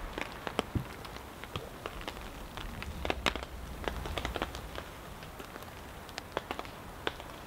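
Raindrops hitting a tarp overhead in scattered, irregular sharp ticks, over a low rumble that swells briefly in the middle.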